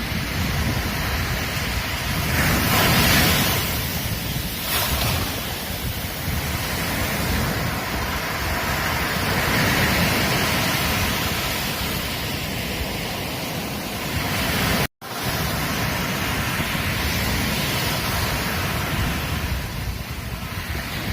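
Ocean waves washing onto a beach: a continuous surf rush that swells and eases, loudest about three seconds in. The sound cuts out for an instant about two-thirds of the way through.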